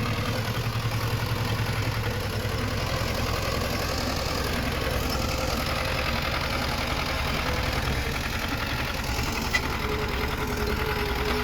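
Diesel engine of heavy earthmoving machinery running steadily, with a brief sharp click about nine and a half seconds in.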